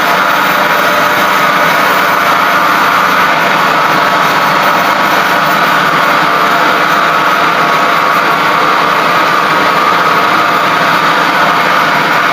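A machine running steadily and loudly, an even mechanical hum with a whine, unchanging throughout.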